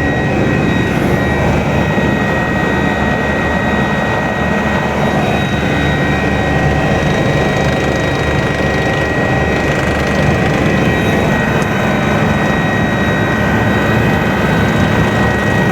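Kawasaki BK 117 B-2 twin-turbine helicopter in flight, heard from on board: a loud, steady turbine and gearbox whine over a dense low rumble, unchanging throughout.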